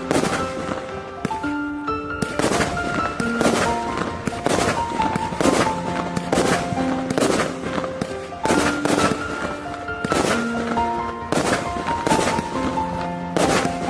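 A 100-shot, 0.8-inch fireworks cake firing shot after shot, a sharp bang about every half second to second. Background music with a melody of steady notes plays over it.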